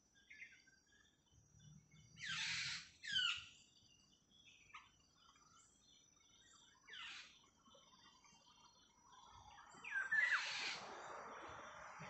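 Wild bird calls: a pair of short harsh calls about two seconds in, another around seven seconds, and the loudest call near ten seconds, over a steady high insect whine. A soft rushing hiss builds in the last few seconds.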